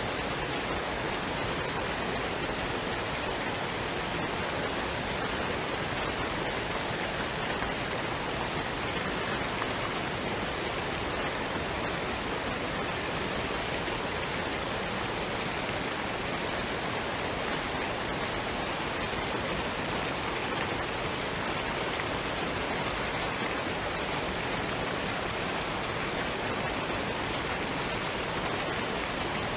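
Waterfall and stream water rushing in a steady, even wash of noise that does not change.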